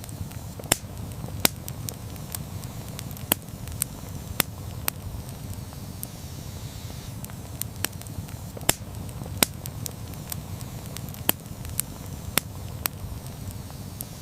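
Campfire burning, with a steady low rumble of flames and frequent irregular crackles and sharper pops from the burning wood.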